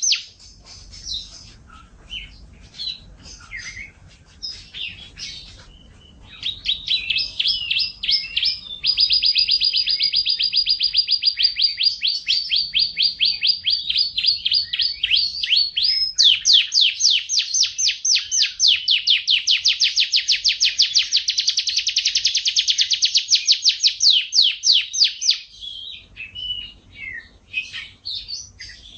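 Yorkshire canary singing: scattered short chirps, then from about six seconds in long, fast rolling trills running for nearly twenty seconds, before breaking back into short notes near the end.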